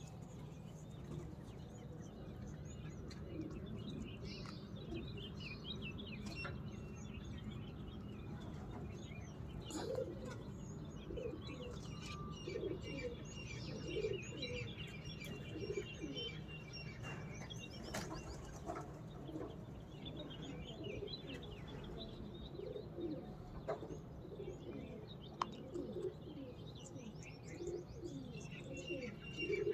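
Birds chirping and twittering continuously, with many short low calls repeating underneath and a few sharp clicks, over a steady low hum.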